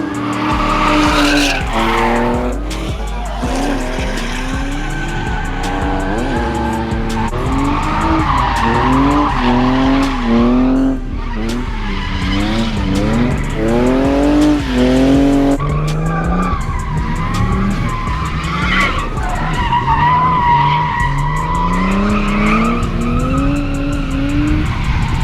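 Drift car engine revving hard again and again, pitch climbing with each rev and falling off between them, with tyres squealing in skids, over background music with a steady bass.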